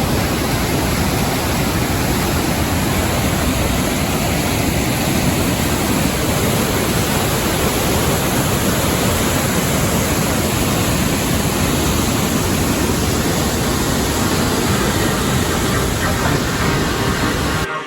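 Loud, steady roar of a waterfall's falling water, an even rushing noise with no breaks, cutting off suddenly near the end.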